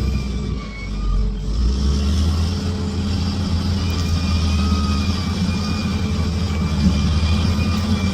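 Bulldozer's diesel engine running under load, rising in pitch and loudness about a second and a half in, then holding steady.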